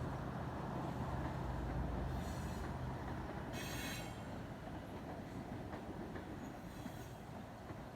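Passenger train hauled by a KZ4AC electric locomotive rolling along the track: a steady rumble with a low hum that fades after about three seconds. Two brief high-pitched wheel squeals come about two and three and a half seconds in, and a faint one near the end.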